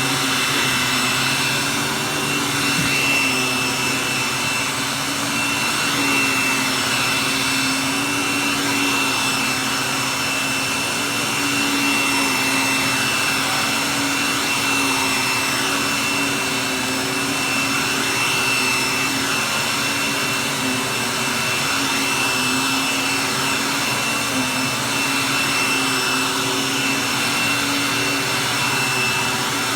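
Hoover vacuum cleaner running steadily, a high thin whine riding over the rush of its motor, the level swelling and easing gently every few seconds.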